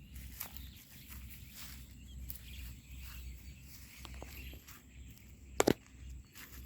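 Rural outdoor ambience with birds and many short, high, scratchy sounds over a low rumble, broken by two sharp knocks close together about five and a half seconds in.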